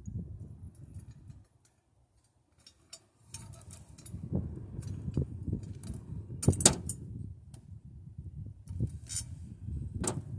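Wind buffeting the microphone as a low rumble, with sharp metallic clinks and knocks of tools and engine parts being handled. The sound drops out briefly near the start.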